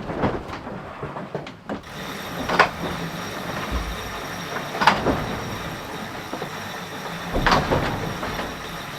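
Onboard noise of an IMOCA racing yacht: a steady rumbling rush with sharp knocks and creaks every couple of seconds.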